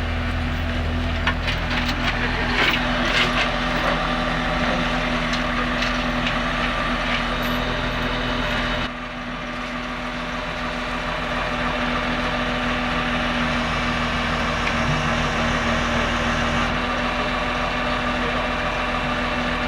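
A large engine running steadily at idle, with a few sharp clanks in the first few seconds. About nine seconds in, its deepest rumble drops away abruptly and the sound steps down slightly, then runs on steady.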